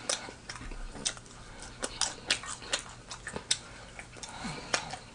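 A person chewing a mouthful of sandwich close to the microphone, with irregular wet mouth clicks and soft crunches.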